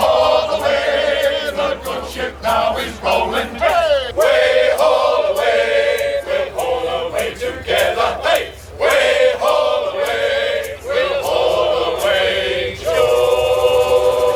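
Choir of voices chanting in long held notes that glide between pitches, over sharp percussive hits.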